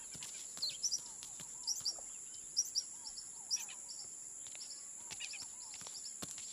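Outdoor woodland ambience: a bird calling in quick pairs of short high chirps, repeated several times over the first few seconds, over a steady high-pitched hiss and faint scattered ticks.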